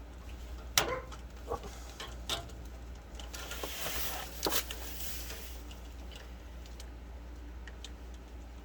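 Sharp plastic clicks and rustling as a stuck wire connector is worked loose from a furnace control board, the loudest click about a second in, over a steady low hum.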